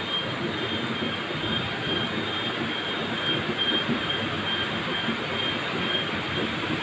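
Heavy rain falling steadily in a thunderstorm, an even hiss without any sudden crack or clap.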